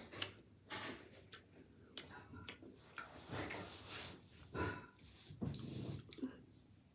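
Close-up chewing of a crunchy Chips Ahoy cookie: irregular crunches and small clicks, coming and going in short bursts.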